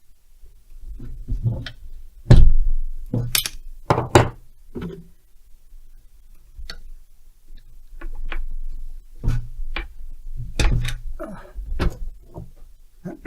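Hand tools being rummaged through and set down on a workbench while hunting for an 8 mm tool: irregular knocks, clunks and clinks. The loudest come about two to four seconds in and again about ten to eleven seconds in.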